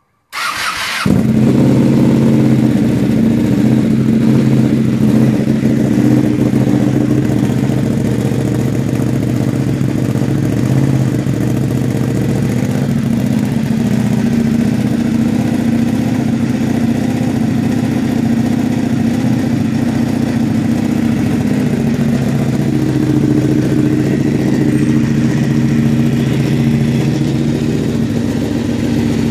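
Ducati Panigale 899's Superquadro V-twin with an SC-Project exhaust, cranked on the starter and catching about a second in, then idling loud and steady.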